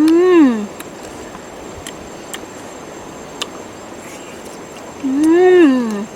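A short voice-like call that rises then falls in pitch, heard twice about five seconds apart, over a steady insect-like hiss with faint clicks.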